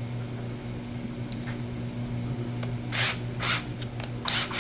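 Four short scraping, rustling handling sounds, about three seconds in and again near the end, over a steady low hum.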